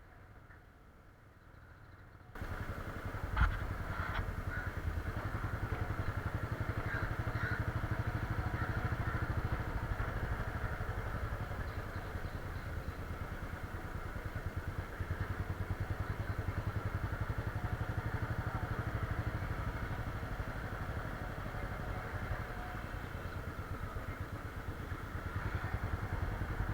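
Motorcycle engine that comes in suddenly about two seconds in and runs steadily, with a single sharp knock about a second after it begins.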